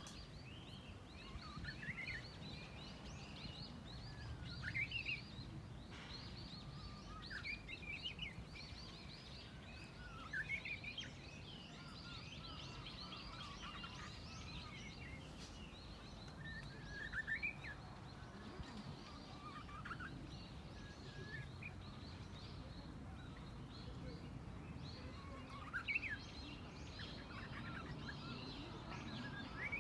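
Japanese bush warbler (uguisu) giving faltering practice song: short, unsteady whistled phrases, rising and falling, every few seconds, instead of the full hō-hokekyo song. This is the unpolished singing typical of a bird still practising its song. Faint twittering of other small birds and a low outdoor rumble lie beneath.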